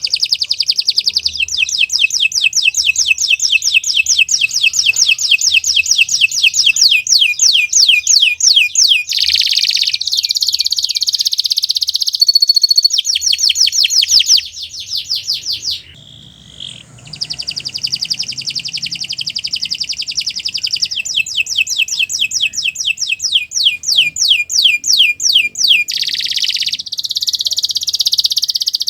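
Domestic canary singing a long song of fast repeated trills and rolls, with one short break about halfway through.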